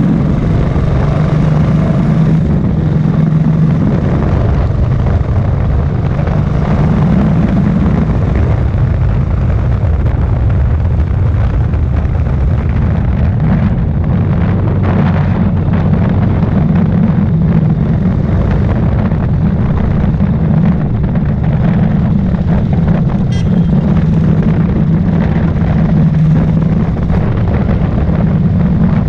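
Royal Enfield Thunderbird motorcycle's single-cylinder engine running steadily while riding, a loud continuous low thump.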